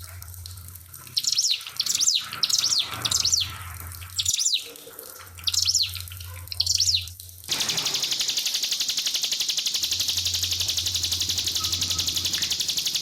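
A ciblek (prinia) singing its rapid-fire 'nembak' song: about six sharp, high, quickly sweeping chirp phrases over a low steady hum. About seven and a half seconds in, this cuts off suddenly and gives way to a steady, fast-pulsing high hiss.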